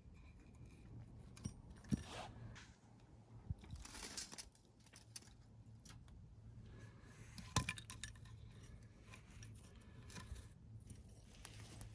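Scattered light clinks, clicks and short scrapes of small hard objects being handled, with two sharper knocks about two seconds in and again past the middle.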